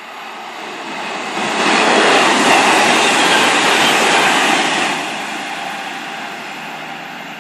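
A train passing at speed on the main line. Its rushing noise builds up, stays loud for about three seconds, then fades away.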